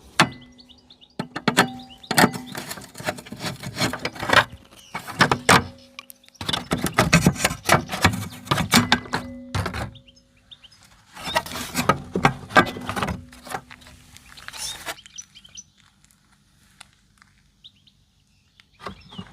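Bursts of clattering and knocking from scooter parts and tools being handled, stopping about fifteen seconds in.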